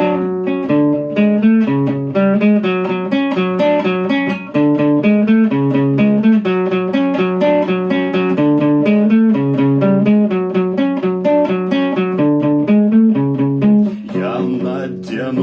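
Guitar picking a quick, repeating arpeggiated pattern as a song intro. A singing voice comes in near the end.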